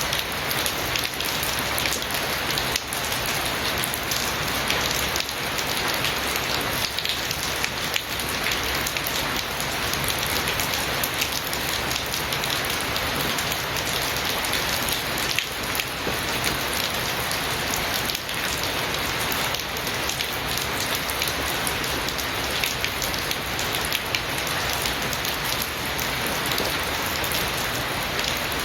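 Rain falling steadily, a dense, even patter of many drops.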